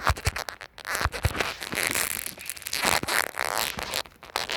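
Irregular crackling and rustling handling noise on a phone's microphone, a quick run of sharp clicks and scuffs.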